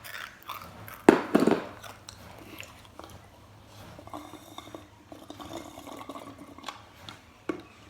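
Close-up chewing and mouth sounds of someone eating, with scattered small clicks and a loud thump about a second in.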